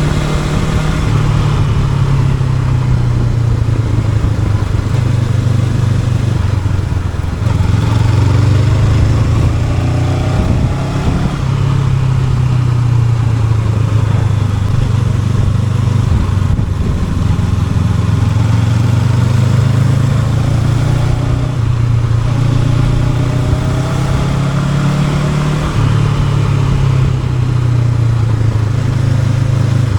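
Honda NX500's parallel-twin engine running as the motorcycle is ridden, its pitch rising and falling with the throttle and stepping abruptly several times with gear changes.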